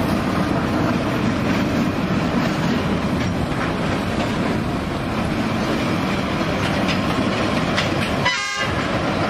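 Freight train of tank wagons rolling past behind a diesel locomotive: a steady rumble with a few clicks from the wheels. About eight seconds in, a brief high-pitched tone sounds over it.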